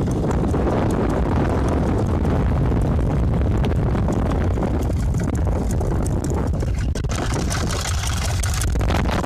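Fishing boat's engine running steadily, a low, continuous rumble with a noisy wash above it.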